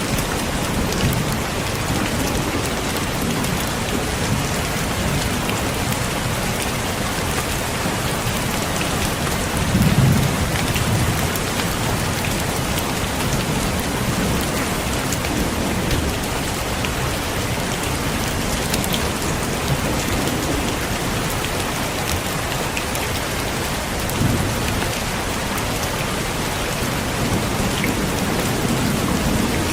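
Heavy rain falling steadily, with low rolls of thunder, the loudest about a third of the way through and another near the end.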